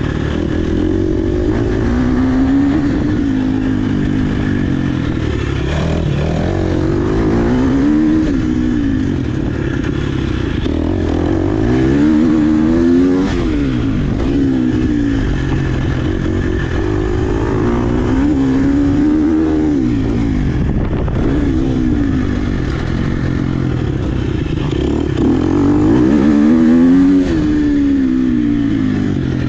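Dirt bike engine being ridden hard, revving up and dropping back again and again, its pitch climbing and falling every few seconds.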